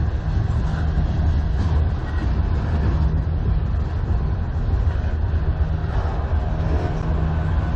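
CN manifest freight train's cars rolling past, a steady low rumble of steel wheels on rail.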